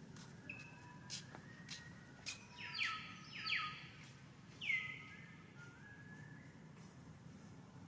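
Bird calls: three loud downward-sweeping calls come in the middle, among fainter thin whistled notes and short clicks, over a steady low background hum.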